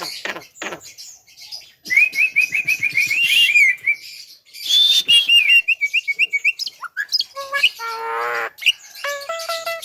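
Javan myna (jalak kebo) calling: two runs of rapid, sliding chirps, a harsh buzzy note about eight seconds in, then a string of short repeated notes near the end.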